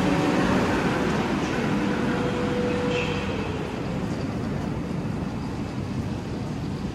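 South Western Railway Desiro electric multiple unit running along the platform, a steady rumble that slowly fades, with a brief high squeal about three seconds in.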